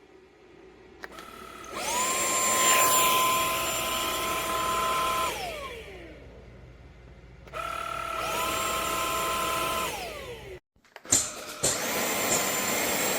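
KCLASO cordless stick vacuum's motor switched on and off twice, each time whining up to speed, running steadily for a few seconds and winding down with a falling whine. After a couple of knocks it starts again and runs steadily.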